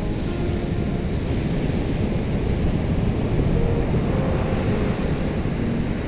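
Ocean surf washing steadily, one wave swelling to its loudest about halfway through and then easing back.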